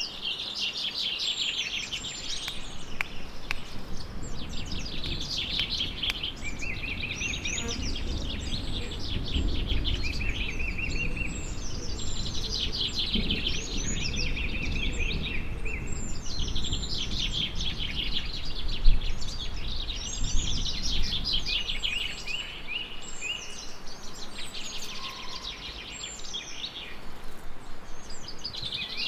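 Songbirds singing in short trilled phrases repeated every couple of seconds throughout. Through the middle a long low rumble of distant thunder swells and fades.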